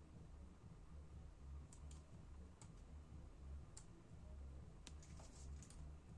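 Near silence with a low hum and a few faint, scattered sharp clicks of small laptop parts being handled.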